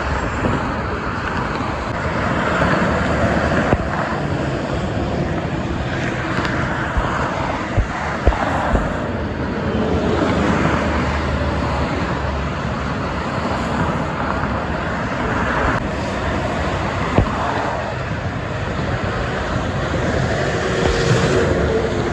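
Steady expressway traffic noise of trucks and cars passing one after another, with a few short thumps about a third of the way in and again past the middle.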